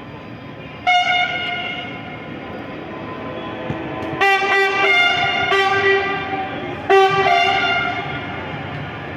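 Locomotive air horn sounding over the rumble of a passing train: one blast about a second in, then a run of short blasts from about four seconds in, the last near seven seconds, fading away.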